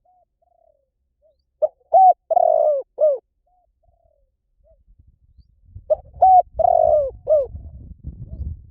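Spotted dove cooing: two loud phrases of four short curved coos, about four seconds apart, with fainter single coos between them. A low rumble runs under the second half.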